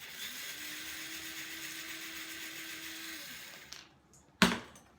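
Old electric blade coffee grinder grinding flaxseed: the motor stops for a moment at the start, starts again and runs steadily for about three seconds, then winds down. A sharp knock follows about four and a half seconds in.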